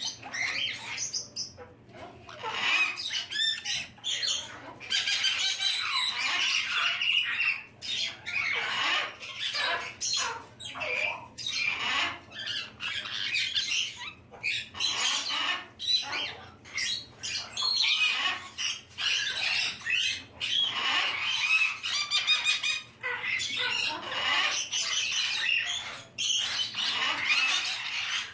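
Caique parrots, black-headed and yellow-headed, squawking and chattering at play, with many short harsh calls overlapping in quick succession and only brief pauses.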